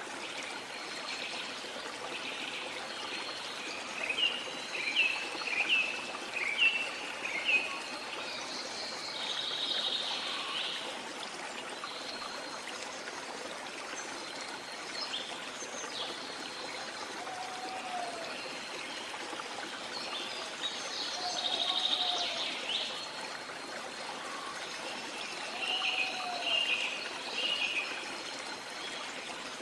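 Steady rush of falling water with jungle birds calling over it. About four seconds in comes a quick run of about seven short chirps, then buzzy bursts of song twice, and in the second half low, slurred whistled notes about every three seconds.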